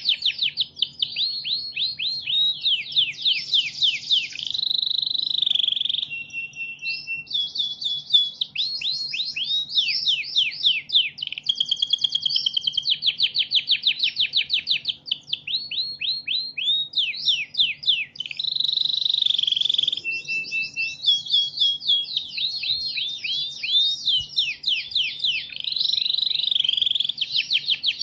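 Domestic canary singing a continuous song of fast trills: rapid runs of quick downward-sweeping notes, broken by short held whistled tones and rolling phrases. A faint steady low hum runs underneath.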